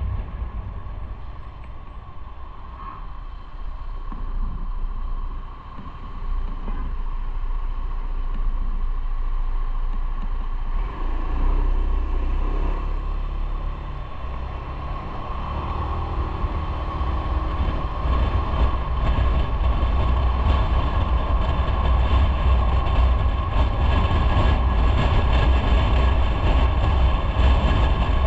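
Motorcycle running on the road, its engine rumble mixed with wind and road noise, getting louder through the second half.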